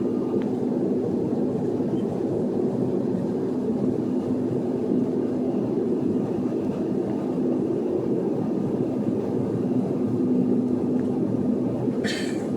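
Steady rumble of a Sukhoi Superjet 100 airliner during landing, with its SaM146 turbofans and airflow making a constant low roar and a steady hum. A brief hiss comes near the end.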